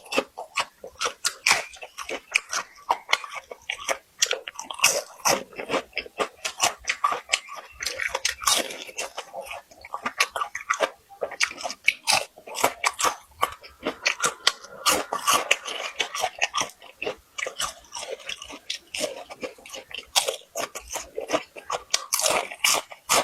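A person chewing crispy food close to the microphone: continuous rapid, irregular crunching and crackling bites.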